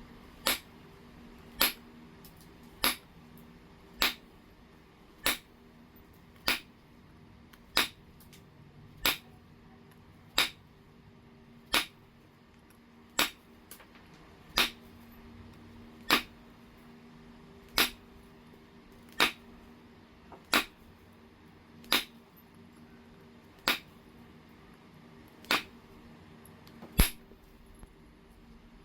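Heat-treated jasper being flintknapped: a sharp click each time a flake comes off, about twenty in all, one every second and a half or so at a steady working pace. The loudest strike comes near the end.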